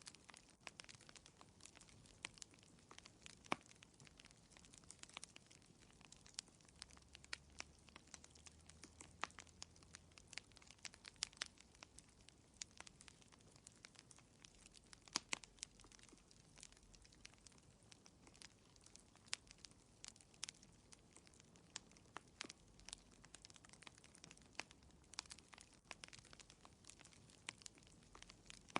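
Wood fire crackling in a fireplace: a quiet, continuous run of irregular small pops and snaps, a few louder than the rest, over a faint hiss.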